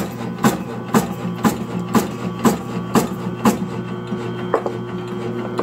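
Motor-driven medicinal-herb cutting machine running, its blade chopping down sharply about twice a second over a steady motor hum. The chopping stops about three and a half seconds in, with one lighter chop a second later, while the hum carries on.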